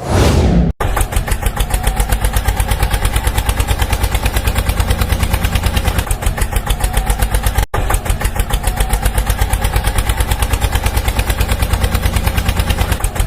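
Tractor engine running with a fast, even chug, cut off abruptly for an instant twice, once under a second in and again about eight seconds in.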